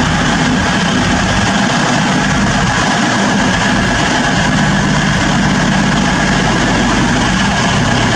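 Class 220 Voyager diesel multiple unit's underfloor diesel engines idling with a steady low drone while the train stands at the platform.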